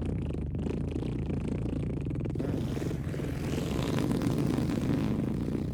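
Long, drawn-out fart sound effect: a steady, low, rapid rattling flutter that swells a little about four seconds in.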